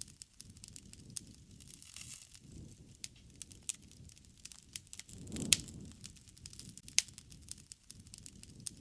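Wood fire crackling, with irregular sharp pops over a soft low rumble of flames; one louder pop with a brief swell of rumble a little past halfway, and another sharp pop soon after.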